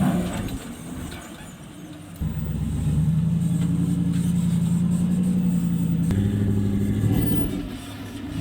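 Off-road rig's engine crawling over rocks: about two seconds in the engine comes in suddenly and holds steady revs under load for about four seconds, then drops to a lower pitch and eases off.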